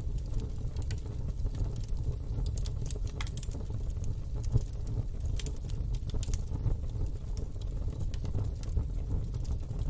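Wood fire burning in a fire pit: frequent small crackles and pops over a steady low rumble, with one sharper pop about halfway through.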